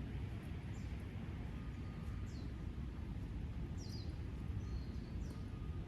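A bird calling with short, high chirps that fall in pitch, about four of them spaced a second and a half apart, over a steady low rumble.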